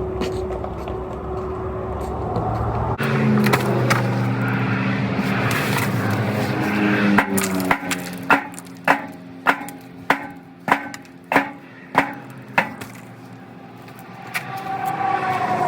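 A steady low machine hum cuts off suddenly about three seconds in. In the middle come about ten sharp, evenly spaced hammer blows, a little under two a second, struck on the truck's exhaust during a muffler replacement.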